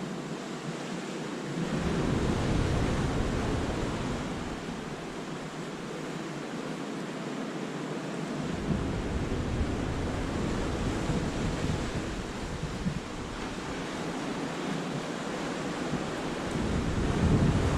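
Sea waves breaking and washing over the rocks of a cove: a steady rush that swells about two seconds in and again near the end. Wind buffets the microphone in low rumbles that come and go.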